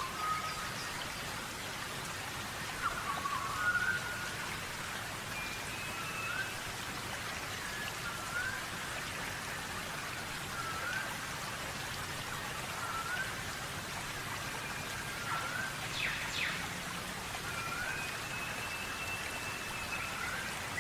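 Small birds calling: a short rising chirp repeated about every two seconds, with a few longer, steady higher whistles. Under them runs a steady hiss.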